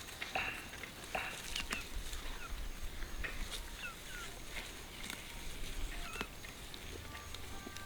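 Short high chirping calls, scattered a second or so apart, some rising or falling in pitch, with occasional sharp clicks and taps.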